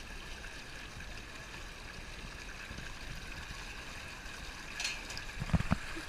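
Water running steadily down a waterslide. There is a short hiss about five seconds in and a few low thumps near the end.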